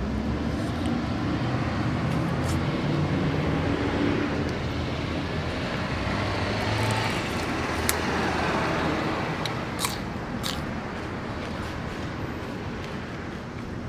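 Steady rumble of road traffic, swelling for a few seconds in the middle as a vehicle passes, with a few sharp clicks over it.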